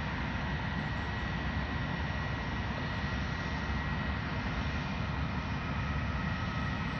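Jet airliner engines running steadily: a rumble with a thin high whine held over it, the whine fading and a lower whine coming in near the end.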